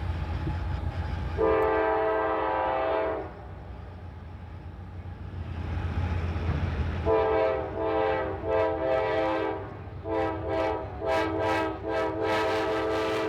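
Freight train's diesel locomotive sounding its air horn, a chord of several tones: one blast of about two seconds a second or so in, then from about seven seconds a long series of blasts with short breaks, over a low rumble.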